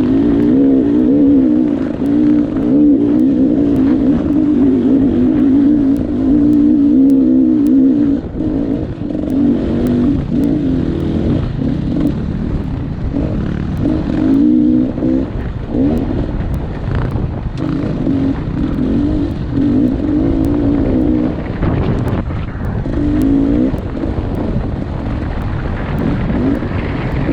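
Dirt bike engine running under throttle, its pitch wavering. It holds steady for about the first eight seconds, then comes on and off in shorter spells over a low rumble, with scattered sharp ticks.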